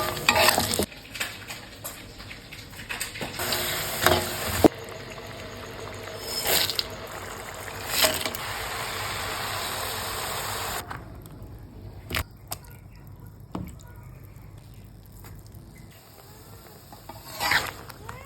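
Close-miked kitchen cooking sounds: knocks and clinks of utensils, then a steady hiss for about six seconds in the middle, then quieter scattered clicks and handling.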